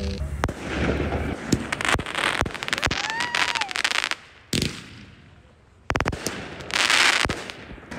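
Fireworks display going off: a rapid run of bangs and crackling, with a quiet spell of a second or so past the middle before the bursts start again.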